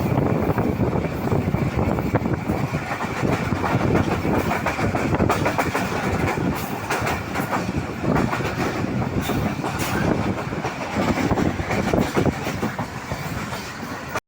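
Train running fast: a steady rumble with its wheels clattering over the rail joints.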